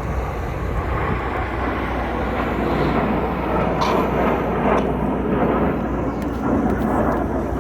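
Jet noise from a formation of BAE Hawk T1 trainers flying a display: a steady, rushing rumble that swells slightly a second or two in.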